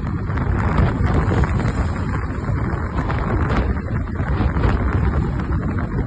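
Scania V8 truck engine running, with wind rumbling over the microphone.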